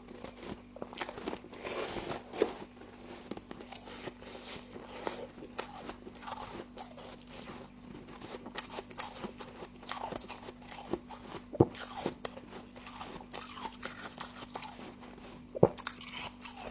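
Close-up crunching and chewing of frost in the mouth, an irregular run of crackles with a few sharper, louder crunches. A steady low hum sits underneath.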